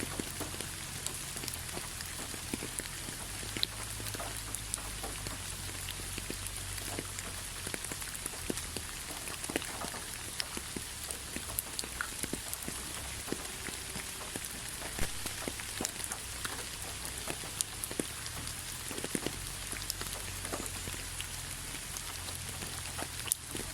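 Light rain falling steadily, with many separate drops ticking and pattering on a surface.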